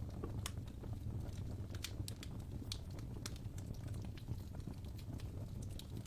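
Wood fire burning in a fireplace, with a steady low rumble of the flames and irregular sharp crackles and pops from the burning logs.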